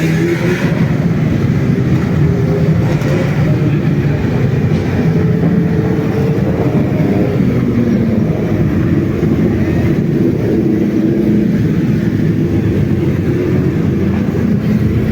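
Motorcycle engines running steadily, their pitch drifting up and down a little.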